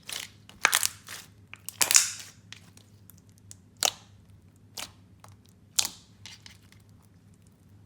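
Clear slime topped with fishbowl beads being pressed and squeezed by hand, giving a handful of sharp crunching, crackling pops spread out over several seconds, the loudest about two seconds in.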